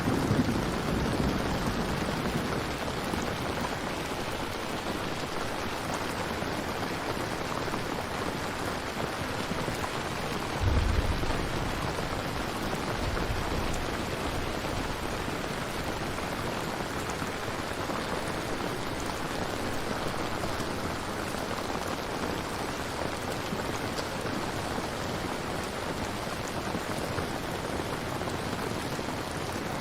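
Steady, even rain falling. A short low rumble stands out about eleven seconds in, and a low rumble fades away at the very start.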